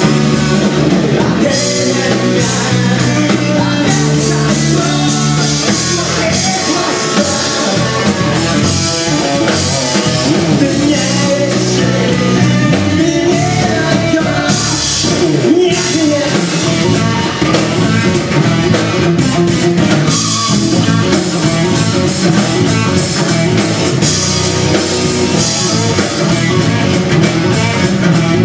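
Rock music: an instrumental passage between sung verses, with guitar and drum kit playing at a steady loudness.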